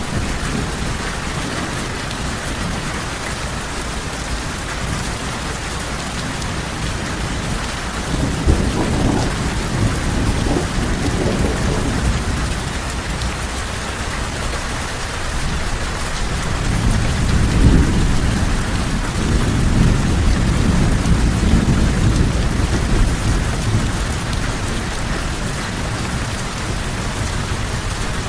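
Steady heavy rain with rolling thunder: a low rumble swells about a third of the way in, and a longer, louder one a little past halfway.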